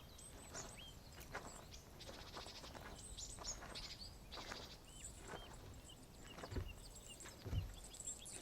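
Ambient birds chirping, short high calls scattered throughout, with a couple of low thuds near the end.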